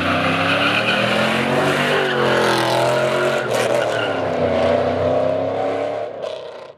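A car engine held at high revs, its pitch wavering up and down, over the hiss and squeal of spinning tyres, as a car does burnouts or donuts; it fades out near the end.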